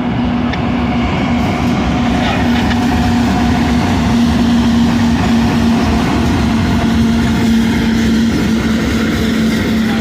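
BNSF grain train's freight cars rolling past, a loud steady rumble of steel wheels on rail with a steady low hum.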